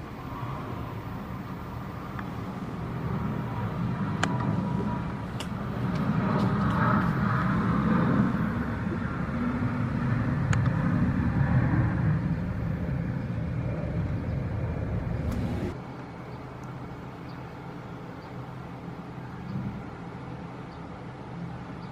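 Boeing 737-900ER's CFM56 jet engines at takeoff power: a deep rumbling roar that swells to a peak around the middle, then falls away abruptly a few seconds before the end.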